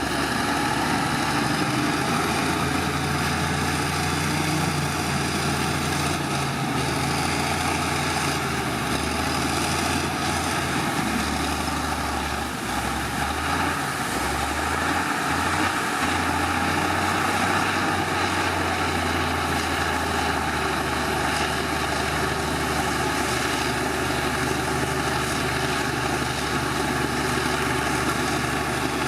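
Heavy diesel engine of earthmoving machinery running steadily, with its note shifting and dipping for a few seconds about halfway through.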